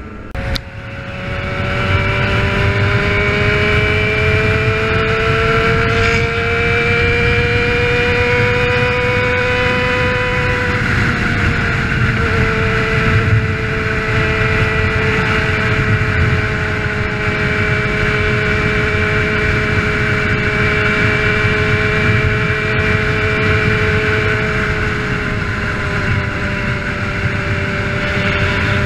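Motorcycle engine running at steady high revs, as when riding along. Its pitch climbs slowly, drops a little about eleven seconds in, then holds, over a low rumble of road and wind.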